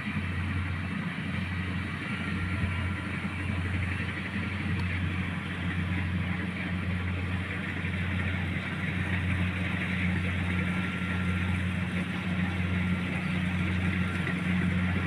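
An engine running steadily at a constant speed, a low, even hum that gets slightly louder in the second half.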